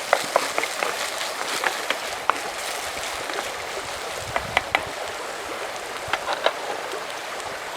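Small wood campfire crackling, with sharp snaps scattered irregularly over a steady rushing hiss.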